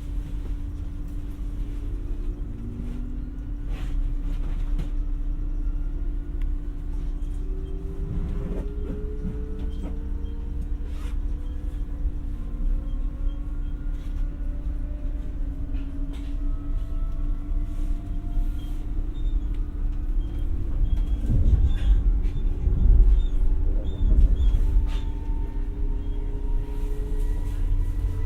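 Onboard running sound of an X60 (Alstom Coradia Nordic) electric commuter train: a steady rumble of wheels on the rails under several faint motor whines that rise slowly and evenly in pitch as the train gathers speed, with a few short clicks and the rumble swelling a little past the middle.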